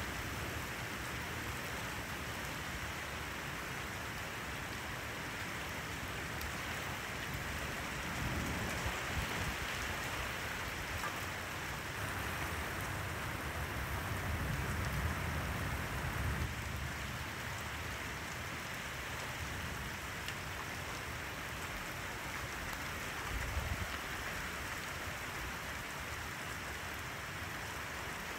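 Heavy thunderstorm rain falling steadily, with a few low rumbling swells rising and fading under it.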